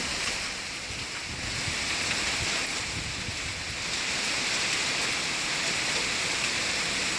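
Heavy rain pouring down steadily, an even hiss of rainfall during a thunderstorm.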